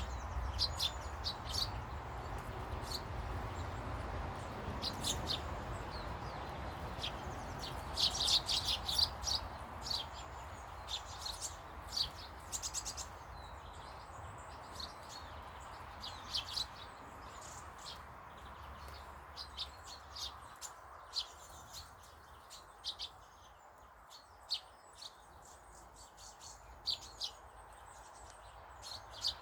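Small garden birds chirping and twittering in short, sharp calls, busiest about a third of the way in, over a steady low background rumble that fades in the second half.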